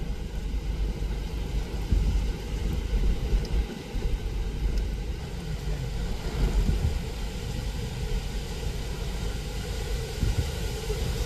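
Hurricane wind gusting hard against the microphone, a low rumble that rises and falls with each gust.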